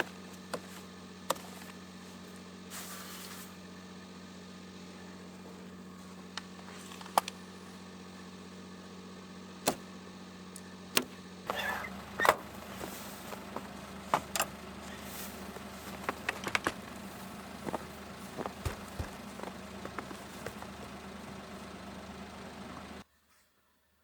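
A steady mechanical hum with scattered clicks and knocks. The hum shifts about halfway through, the clicks grow busier, and everything cuts off suddenly near the end.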